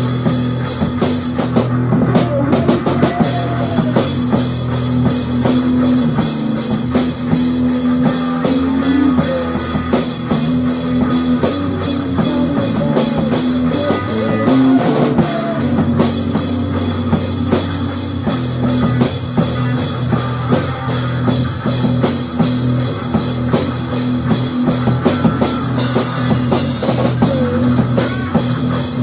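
Loud rock music, with a full drum kit keeping a steady beat over sustained instruments.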